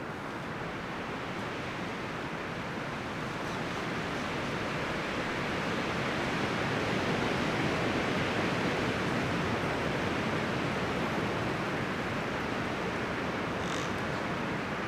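Wind blowing through forest trees: a steady rustling of leaves and branches that swells gradually towards the middle and eases slightly after.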